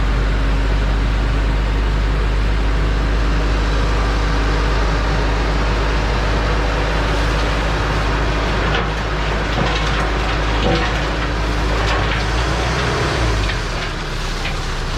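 THACO dump truck's engine running steadily, with irregular clattering and knocks starting about halfway through.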